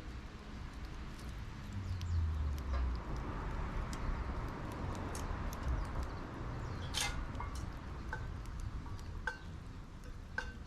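Wood fire burning in a homemade steel fire pit: scattered crackles and a few short, sharp metallic clinks over a low rumble.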